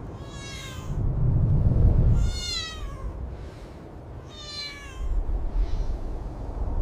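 A cat meowing three times, each call sliding down in pitch, with a fainter fourth near the end. Under it runs a low rumble, loudest about a second or two in.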